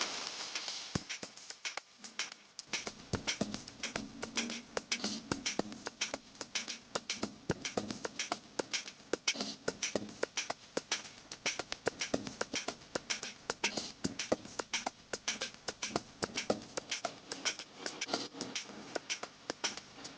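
Dense, irregular clicking and tapping, several sharp clicks a second, building up about three seconds in and continuing throughout.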